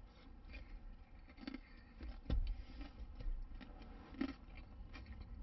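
Quiet chewing of a crispy fried chicken and glazed-donut sandwich: faint wet mouth clicks and small crunches, with a low thump a little past two seconds in.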